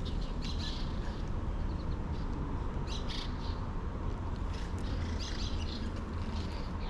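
Birds chirping in short, high calls every second or so, over a steady low rumble.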